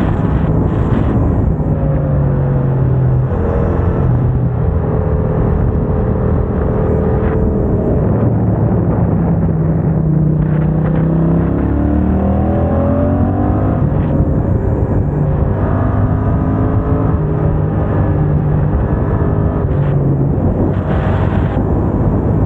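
Yamaha MT-07's parallel-twin engine through an aftermarket MIVV exhaust, ridden under way: the engine note climbs and then drops several times as it accelerates and shifts gear with the HealTech quickshifter.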